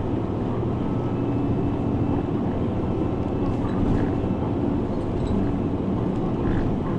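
Route bus running on the road, heard from inside the cabin: a steady engine drone with road noise.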